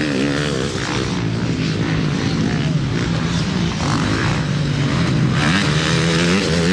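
Motocross motorcycle engines running and revving on the track, their pitch rising and falling continuously as the throttles open and close.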